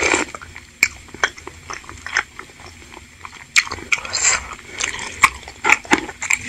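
Close-up eating sounds: a sip of soup broth from a spoon at the start, then wet chewing of chewy tapioca balls (bakso aci), with many short, irregular mouth smacks and clicks.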